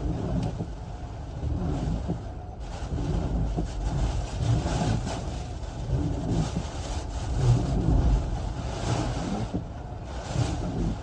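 Hurricane-force wind buffeting a car: a heavy low rumble under a rushing noise that swells and eases in gusts, loudest about halfway through and again near the end.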